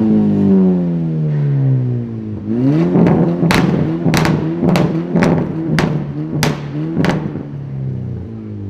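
Sport car engine being revved: the revs fall away, then climb again, with a run of about seven sharp cracks roughly half a second apart, before the revs drop off near the end.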